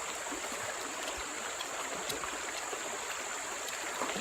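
Steady rushing of a forest stream, even and unbroken, with a few faint ticks over it.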